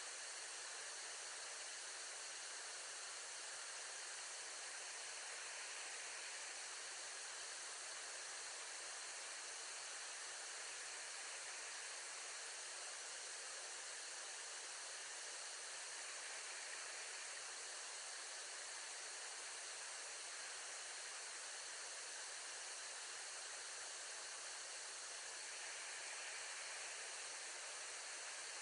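Steady, even hiss with no calls or other distinct sounds.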